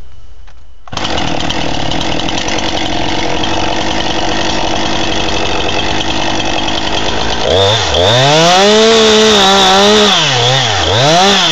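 Two-stroke chainsaw running loud, starting suddenly about a second in as it cuts into the tree. Near the end its engine note rises and falls several times as the throttle is opened and eased.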